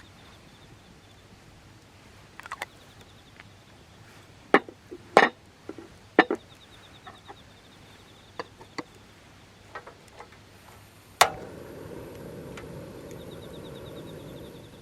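Sharp wooden knocks and clacks, about eight spread over ten seconds, as scrap wood is handled. Near the end a loud click is followed by a steady low rushing noise lasting a few seconds.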